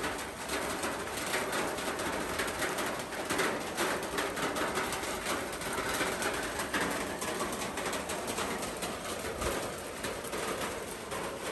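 Heavy rain falling steadily, a dense even hiss full of fine patter.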